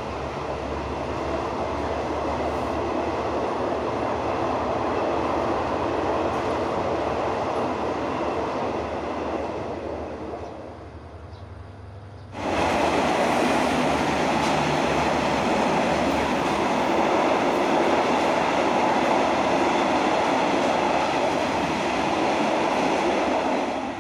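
Passenger train running past with a steady rumble that fades away as the last carriages leave. About halfway through the sound switches suddenly to another loud, steady rumble.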